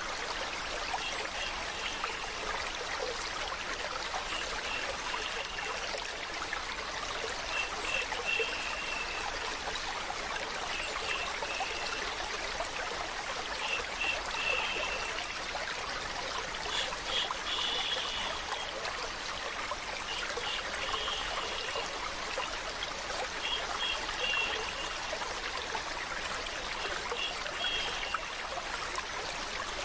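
Steady running water like a small stream, with short bright trickling notes recurring every couple of seconds over the even rush.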